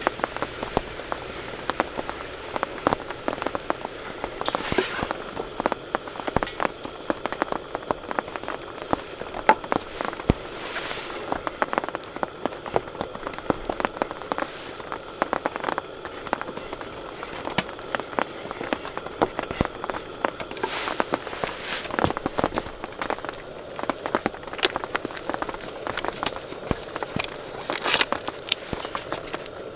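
Rain and sleet drops pattering on a surface: a dense, irregular patter of sharp little taps over a steady hiss.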